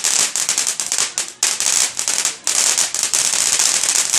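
Fireworks crackling: a dense, rapid run of sharp pops that goes on without letup, with two brief lulls about a second and a half and two and a half seconds in.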